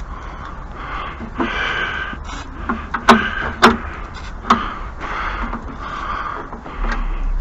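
A few sharp clicks and knocks of small metal parts being handled during carburetor work on a snow thrower, between bouts of heavy breathing close to the microphone.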